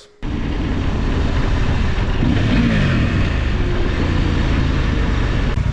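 Motorcycle engine running under way, a steady low drone that cuts in abruptly, with a falling pitch about two to three seconds in.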